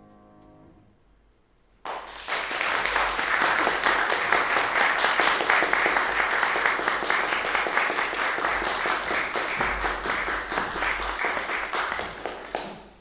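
The last piano chord rings and dies away, then after a short gap an audience applauds for about ten seconds. The applause cuts off sharply near the end.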